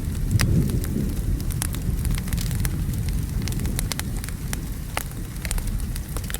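Wood fire crackling and popping in a fireplace, with steady rain beneath it. A low rumble of thunder is heaviest in the first second or so and then eases off.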